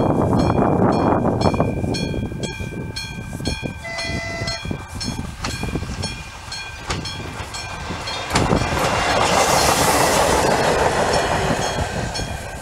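AŽD 97 level-crossing warning bell ringing steadily at about three strikes a second while a train passes. The train's rumble is loud over the first two seconds, a short horn note sounds about four seconds in, and loud train noise returns from about eight seconds.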